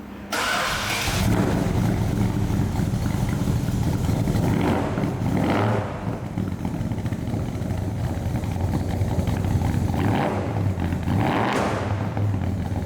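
1970 Plymouth Duster engine running with a deep, steady rumble, the throttle blipped briefly several times.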